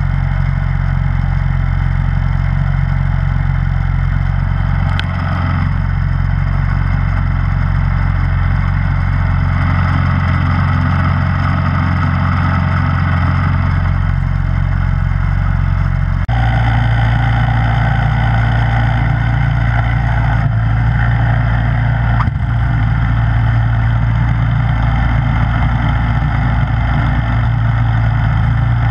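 Snowblower engine running steadily. About sixteen seconds in, its note shifts suddenly and gets a little louder, and there are two brief knocks, one near five seconds and one near twenty-two seconds.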